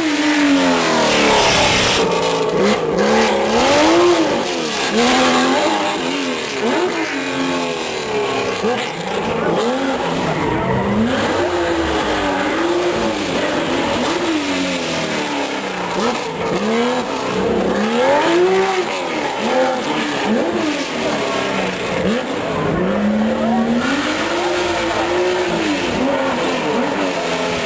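Porsche 911 flat-six engine revved hard, its pitch repeatedly climbing and dropping every couple of seconds.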